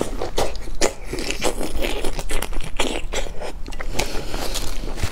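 Biting and chewing a raw marinated shrimp: a quick run of wet crunches and clicks.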